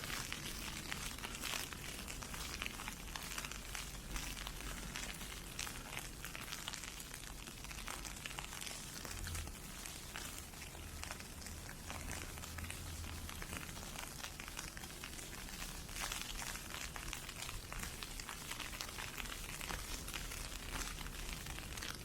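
Ice pellets hitting an umbrella overhead: a steady, dense crackle of many tiny ticks.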